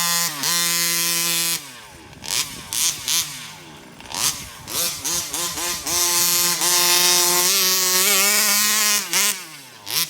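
Small two-stroke 36cc engine of a Rovan FT360R RC truck revving under throttle: held high at the start, then a string of short throttle blips, then a long pull at high revs for about three seconds before dropping back near the end.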